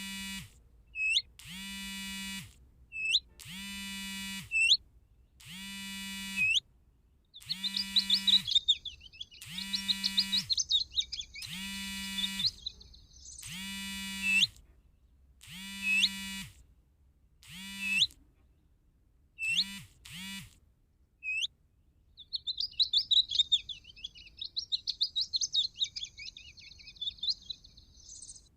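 Bird calls played as a hunting lure: a buzzy, nasal call repeated about every two seconds, each ending in a short rising chirp, with two stretches of rapid chattering twitter. The calls stop about two-thirds of the way through while a chattering bout continues.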